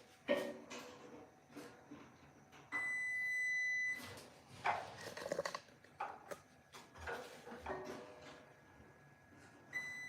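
Multimeter continuity beeper giving a steady high beep for just over a second, and starting again near the end: the probes are across a closed circuit with continuity. Short knocks and clatter from handling the probes and parts come in between.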